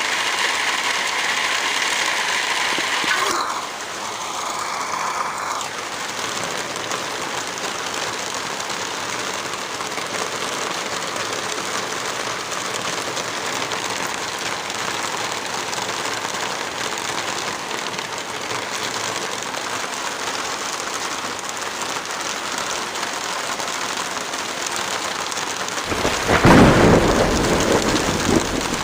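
Steady rain, with a loud roll of thunder rumbling in about three seconds before the end.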